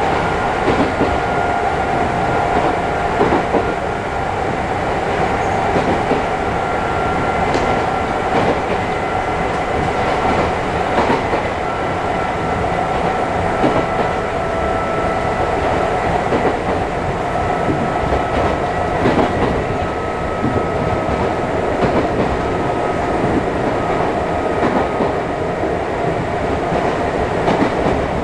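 Running noise inside a Chichibu Railway 5000 series resistance-controlled electric train. A steady motor-and-gear whine drifts slowly lower in pitch as the train loses a little speed, over the rumble of the wheels and scattered rail-joint clicks.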